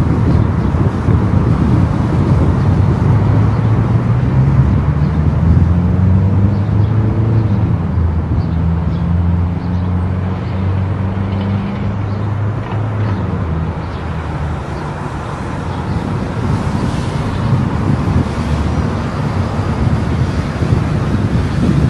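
A car driving on the road: steady tyre and wind rumble, with an engine hum that rises in pitch in steps from about three seconds in and fades out a little before the middle.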